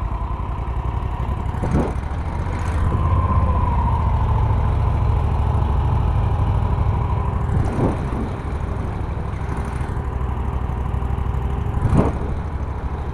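A boat motor running steadily with a low rumble, with three brief knocks spread across the stretch.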